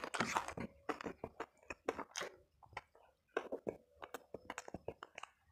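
Close-miked eating: a person chewing a mouthful of food with irregular wet mouth clicks and smacks.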